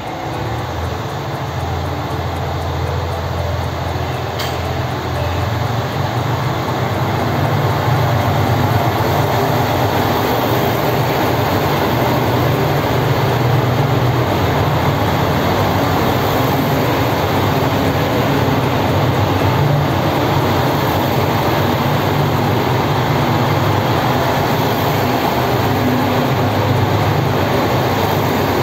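A JR Shikoku out-of-service limited-express train pulling out of the platform and passing close by. Its engines and running gear make a deep, steady rumble that grows louder over the first several seconds, then holds.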